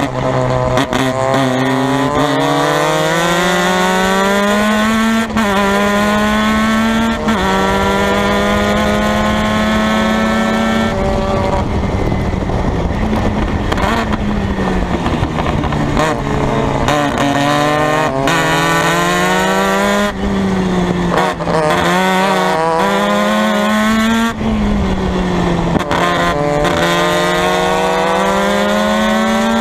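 Formula Mazda race car engine at high revs, its pitch climbing under acceleration and dropping sharply at each upshift, then falling in steps as the car brakes and downshifts for corners, over and over through the lap.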